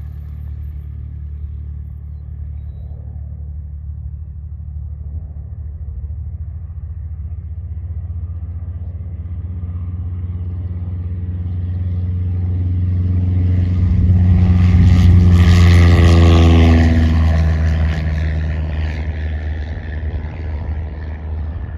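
A steady low engine drone, with a light aircraft passing close about two-thirds of the way through: it swells loud, its pitch falls as it goes by, then it fades.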